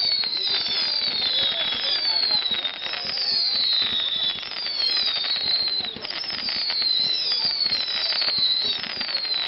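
Fireworks going off: a rapid series of overlapping high whistles, each falling in pitch, over dense crackling.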